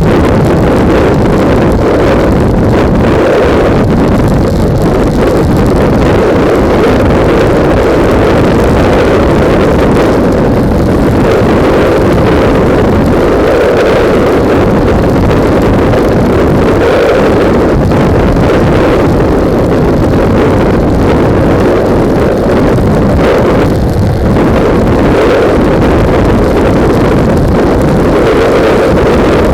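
Heavy wind buffeting on the microphone of a motorcycle-mounted camera at riding speed, a loud, steady low rumble that drowns out everything else.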